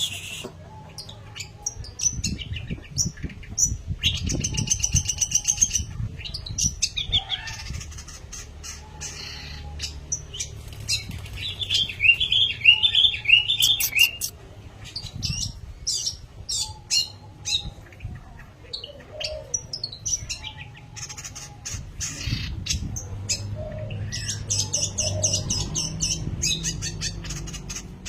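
Long-tailed shrike (pentet) singing a busy, varied song of short chirps, harsh notes and rapid trills, almost without a break.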